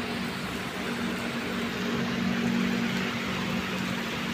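Heavy rain pouring down in a steady hiss. A low, steady hum grows louder about a second and a half in and eases near the end.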